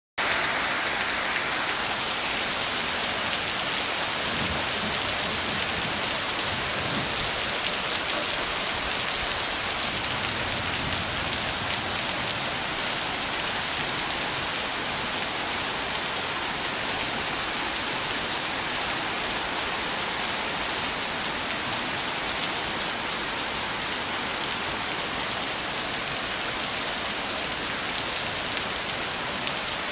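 Heavy rain falling on puddled dirt ground and leafy plants, a steady even hiss.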